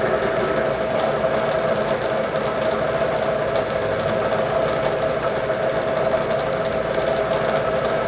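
Milling machine running steadily with a drill turning in the spindle, giving a constant mid-pitched whine over an even mechanical hum.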